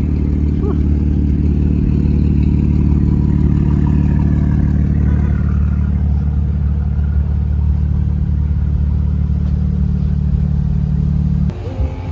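Car engine running at a steady speed, holding one low pitch, cut off suddenly near the end.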